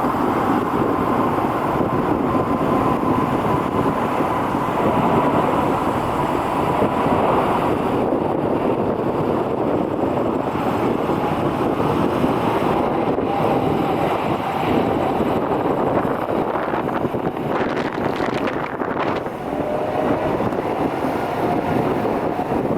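Jet airliner's engines running steadily in a loud, even noise, with a faint whine that slowly drops in pitch. Wind buffets the microphone.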